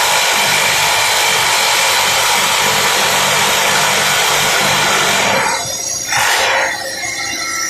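Hydraulic rock drill of a Simba S7D long-hole drill rig drilling rock with a 64 mm bit on T-38 rods, a loud steady hammering noise. It stops about five and a half seconds in, and a short loud burst of noise follows before the rig runs on more quietly.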